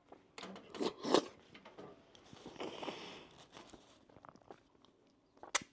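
Close-up handling noises of a takeout meal: crinkling and tearing rustles with several short clicks, and one sharp click near the end.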